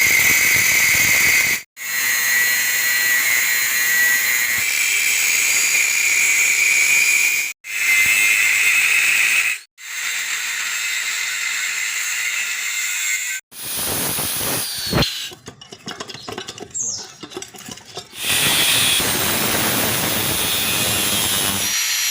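Refrigerant gas hissing out of a refrigerator's copper line: a loud, steady high hiss with a whistling tone, broken by several abrupt cuts. It falls away to a weaker, broken noise for a few seconds past the middle, then comes back.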